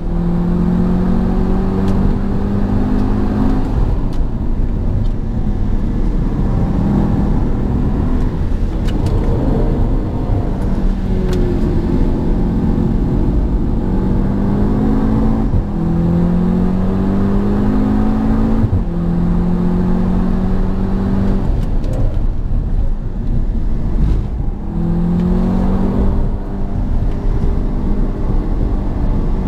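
Audi TTS's turbocharged 2.0-litre four-cylinder engine under full-throttle track driving, its note climbing in pitch again and again and dropping back as the car shifts and brakes for corners, over steady tyre and road noise.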